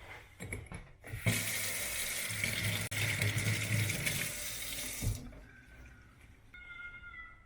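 Water running from a tap for about four seconds, starting and stopping abruptly. A brief high squeak follows near the end.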